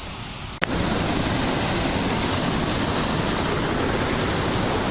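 Steady, loud rush of running water, starting suddenly about half a second in at an abrupt edit, after a quieter hiss.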